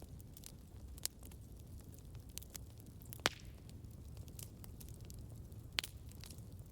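Campfire crackling over a low steady rumble, with three sharper pops: about a second in, past the three-second mark, and near the end.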